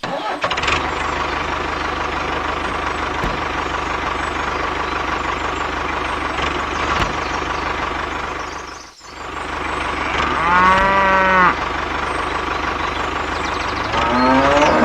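An engine runs steadily, cutting out briefly and starting again about two-thirds of the way through. Over it a cow moos once, loudly, for about a second, and another rising moo begins near the end.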